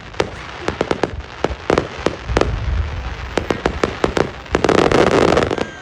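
Fireworks going off: many sharp, irregular bangs with a low rumble, then a dense, louder burst of crackling near the end.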